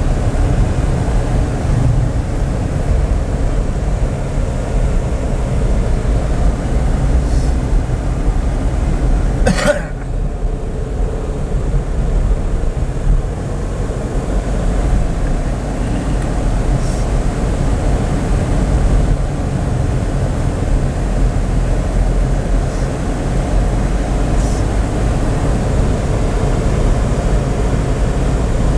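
Car driving along a road: a steady low rumble of engine and road noise, with one sharp knock about ten seconds in.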